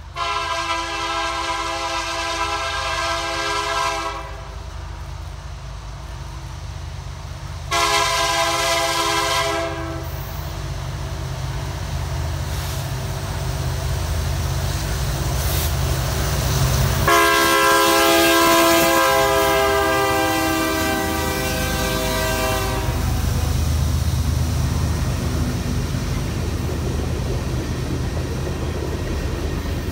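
Locomotive air horn sounding three blasts, a long one, a short one about eight seconds in, and a long one from about seventeen seconds in, over the low rumble of a train that grows louder as it approaches.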